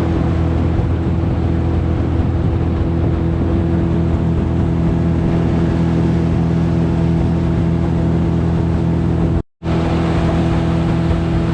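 Boat's outboard motor running at a steady speed, a constant drone with no change in pitch. It breaks off briefly about nine and a half seconds in and picks up again at the same pitch.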